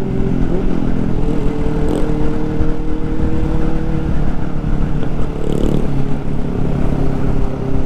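Motorcycle engine running at a steady cruise, its pitch holding nearly level, with a low wind rumble under it.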